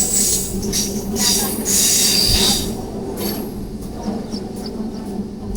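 Train wheels squealing against the rails in shrill surges for the first two and a half seconds or so, over the steady low hum of the running train. The squeal dies away after about three seconds, leaving the running noise with a few light clicks.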